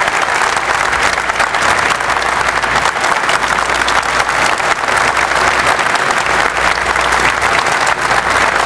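Large audience applauding steadily after a speech.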